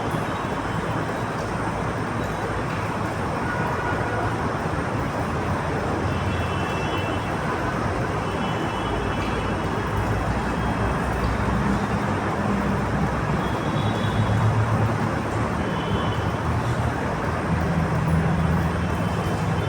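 Steady road traffic noise, with a deeper engine hum rising and falling in the second half.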